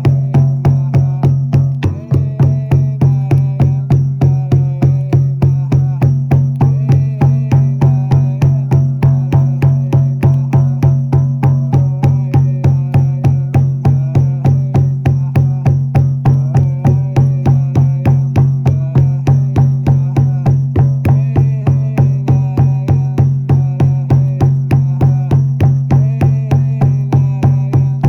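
Frame drum beaten in a steady even rhythm, about three strokes a second, over a continuous low drone.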